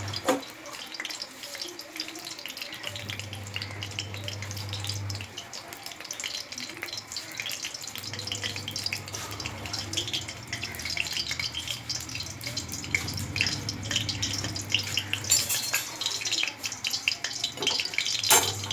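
Cooking oil sizzling and crackling in a pan, with a steady spatter of small pops and a sharp knock near the end.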